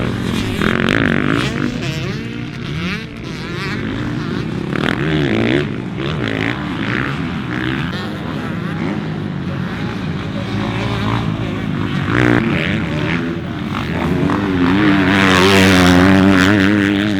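Motocross bikes racing, engines revving up and down through the gears and throttle changes, with a louder pass near the end.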